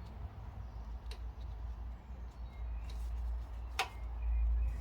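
Small clicks from handling brake parts at the wheel, with a faint click about a second in and one sharp click a little under four seconds in, over a steady low rumble.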